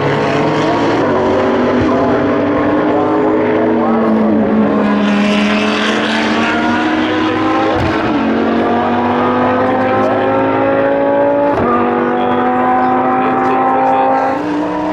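Race car engines at speed, their pitch climbing steadily as they accelerate, broken by quick gear changes about halfway through and again near two-thirds of the way in.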